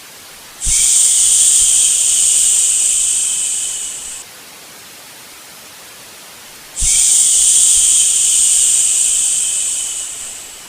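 A person's long "shhh" shushing to lull a baby, given twice, each lasting about three and a half seconds and tailing off. It sounds over a steady white-noise hiss.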